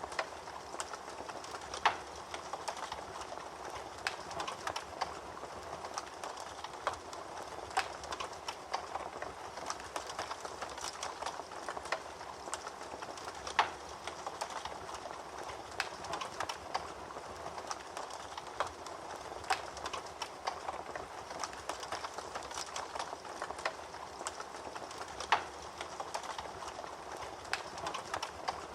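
Wood fire crackling in a fireplace: a steady hiss with frequent irregular snaps and pops, a few of them louder, about 2, 13 and 25 seconds in.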